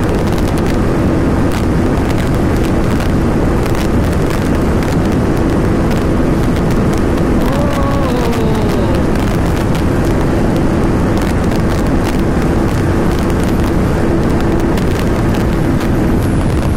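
KTM RC 390's single-cylinder engine running steadily flat out at about 165 km/h, buried under heavy wind rush on the microphone.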